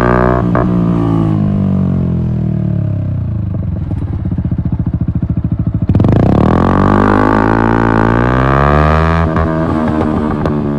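Yamaha MT-125's single-cylinder four-stroke engine through an Akrapovic exhaust. The revs fall as the bike slows and then run low with a pulsing beat. About six seconds in, the revs rise sharply as it pulls away, and near the end a gear change drops them before they climb again.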